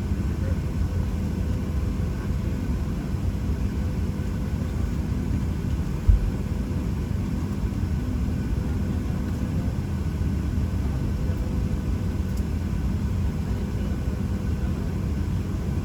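Steady low rumble of air-conditioning and ventilation inside the cabin of a Boeing 737-800 awaiting pushback, with a faint steady hum. One brief dull thump about six seconds in.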